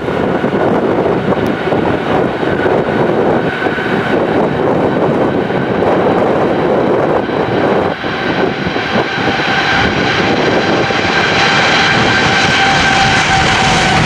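Jet airliner's engines whining and growing louder over the second half as it comes close, the main whine dipping slightly in pitch near the end. Strong gusty wind buffets the microphone throughout.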